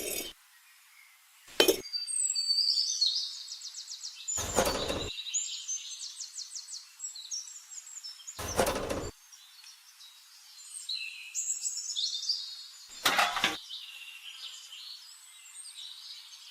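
Birds singing in fast trills and chirps, with four short, sharp knocks spaced a few seconds apart.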